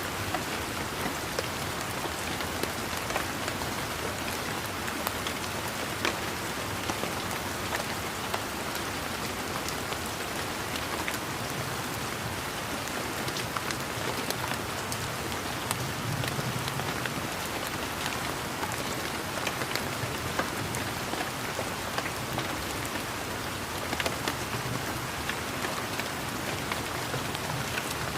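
Steady rain falling on leaves and surfaces, an even patter with many individual drops ticking throughout.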